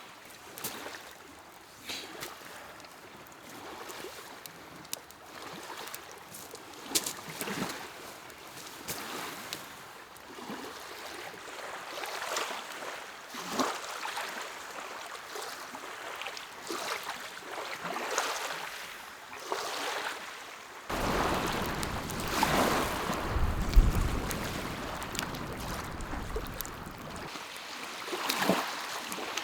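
Small lake waves lapping at the shore, a swell of splashing every second or two. About two-thirds of the way in, a louder rushing stretch with a low rumble starts abruptly and stops just as abruptly some six seconds later.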